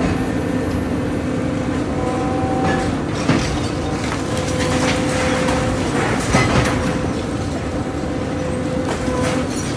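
Excavator diesel engine running steadily under load, with crunching, cracking and clattering of debris as a house is torn down. The breaking noise is heaviest in the middle, with a couple of sharper knocks.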